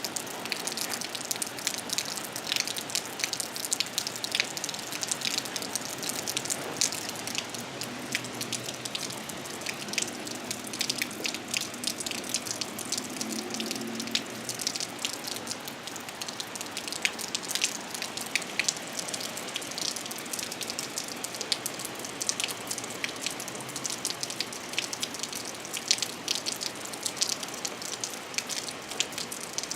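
Steady rain falling, with many individual drops striking a nearby surface as sharp, irregular ticks over an even hiss. A faint low hum comes and goes around the middle.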